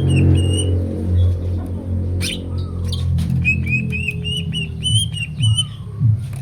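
Green leafbird (cucak ijo) singing: quick runs of short, repeated whistled notes, a brief break about two seconds in with a sharp click, then another fast run. A steady low hum lies underneath.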